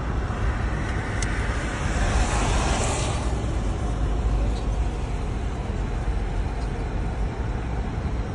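Steady low rumble of a car driving, heard from inside the cabin, with a swell of hissing road noise about two to three seconds in.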